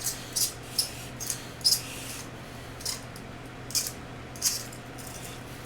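Pencil sharpener cutting the last pencil of a timed run: about ten short, sharp scraping bursts at uneven intervals, stopping after four or five seconds. A steady low hum runs underneath.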